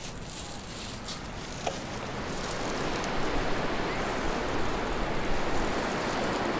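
Sea waves washing in on the beach, a steady rushing that swells from about two and a half seconds in.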